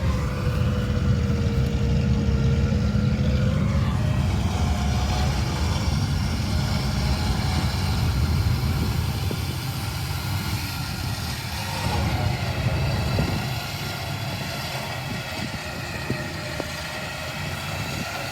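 Jeep Gladiator engine running under load as the stuck truck is winched out of deep mud. It is a steady drone that eases off and drops in level about 13 seconds in.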